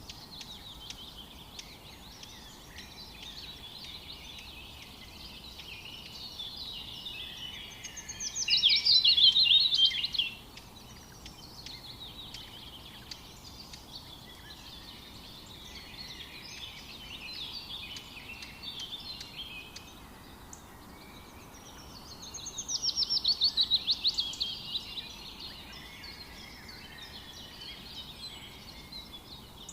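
Several songbirds singing and chirping against a soft background hiss. Two louder, fast trills of rapidly repeated notes stand out, one about eight seconds in and another about twenty-two seconds in, each lasting two to three seconds.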